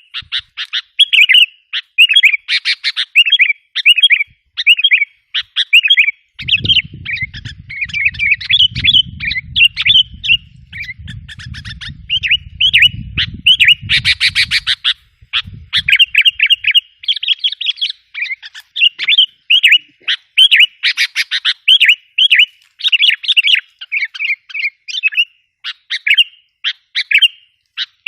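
Sooty-headed bulbul (kutilang) song: quick, bubbling chirped phrases repeated over and over without pause, the kind of recording played to lure wild bulbuls. A low rumble runs underneath for about ten seconds, starting about six seconds in.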